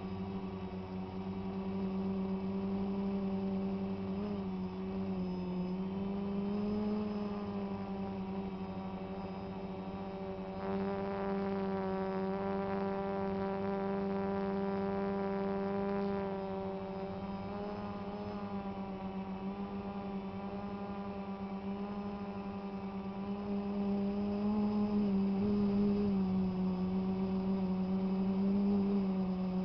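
DJI Phantom quadcopter's motors and propellers humming steadily, the pitch wavering slightly as the rotor speeds change, with a brighter, buzzier tone for several seconds in the middle.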